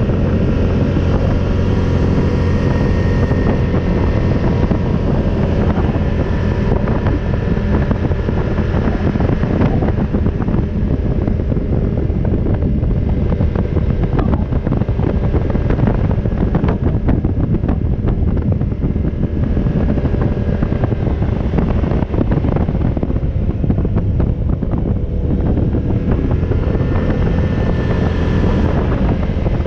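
ATV engine running steadily under way, with wind buffeting the microphone.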